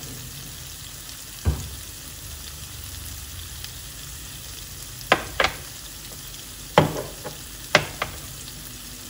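Ground chilli-and-shallot spice paste frying with a low, steady sizzle in a non-stick wok. Several sharp knocks cut through it, one early and a cluster past the halfway point.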